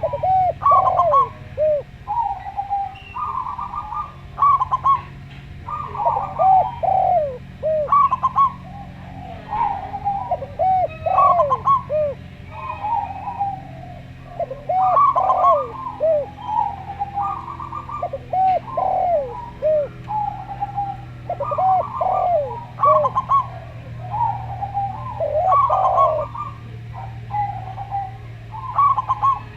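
Zebra dove and spotted dove cooing in repeated phrases. Each phrase is a quick string of short rising-and-falling coos, with short pauses between phrases.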